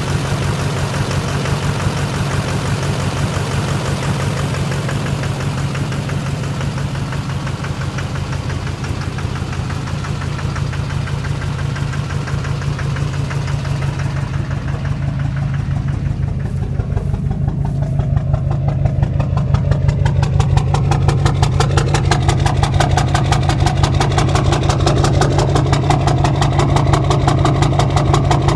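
2006 Duramax LBZ 6.6-litre V8 turbodiesel idling roughly, with a steady rhythmic knock running through the idle. This is the knock and rough idle the owner is showing. About halfway through, the sound grows somewhat louder and duller.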